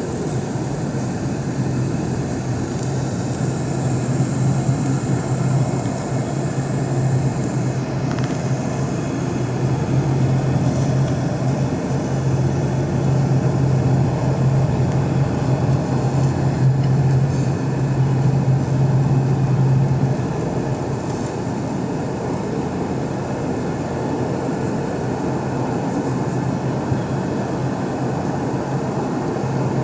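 Steady jet noise of a Boeing 717 in flight, its two rear-mounted Rolls-Royce BR715 turbofans running with a strong low hum under a broad rush of air. A faint high whine fades out about 8 seconds in, and the low hum eases a little about 20 seconds in.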